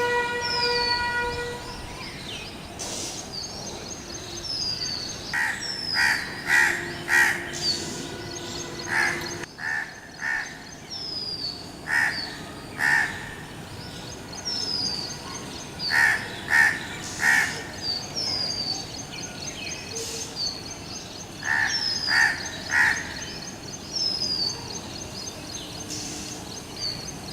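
Crows cawing in groups of two or three, with pauses between the groups, while another bird repeats a short high falling chirp every second or two. A steady horn-like tone stops about two seconds in.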